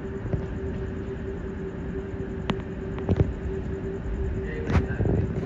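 SMRT C151A metro train pulling away into the distance: a low, steady rumble with a constant hum, broken by a few sharp clicks, loudest about three seconds in and again near the end.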